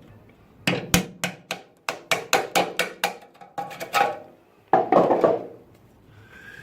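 A run of sharp knocks from a hand tool, about a dozen in three seconds, then a short scraping sound.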